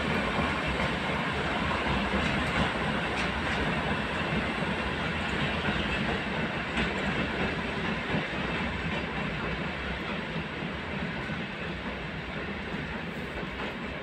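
Freight train of cement hopper wagons, hauled by a diesel shunting locomotive, rolling past on the rails. The sound fades slowly as the train moves away.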